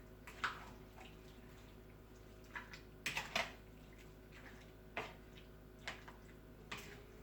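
Pork being mixed by hand with its soy-sauce marinade in a bowl: a few scattered short, wet clicks and knocks.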